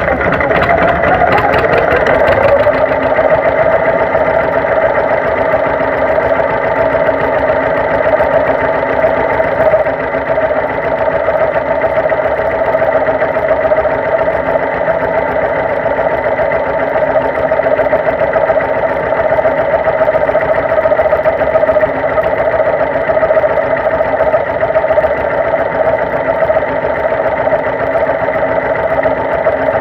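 Tractor engine running steadily, its pitch easing down a little over the first couple of seconds and then holding even.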